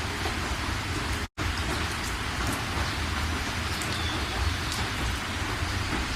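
Steady rain falling, an even hiss with scattered drop ticks and a low rumble underneath. The sound cuts out completely for an instant about a second in.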